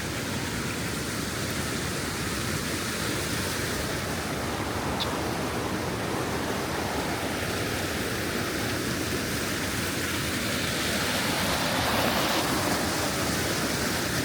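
Steady rushing of water from the Skradinski Buk waterfall's cascades on the Krka River, swelling a little louder about twelve seconds in.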